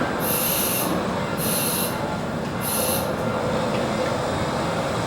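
15-inch gauge miniature steam train rolling in, its wheels squealing three times in short high bursts over a steady rumble of the running train.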